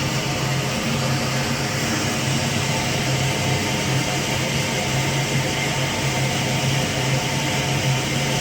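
Blanchard No. 11 rotary surface grinder running under power, its 15 hp spindle drive giving a steady electric-motor hum over an even whirring noise.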